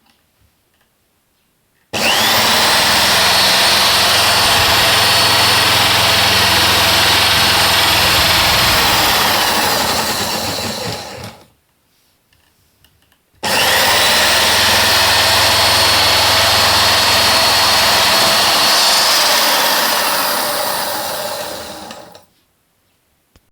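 A cordless driver and a washing-machine motor running together as a test rig, run twice: each time the motor spins up quickly to a steady high whine for about nine seconds, then winds down with falling pitch.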